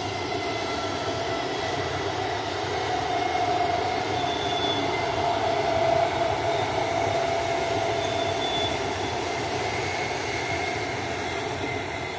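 Indian Railways 12-coach EMU local train passing: a steady rumble of the coaches on the rails with a whine riding over it, growing to its loudest about halfway through and easing off near the end.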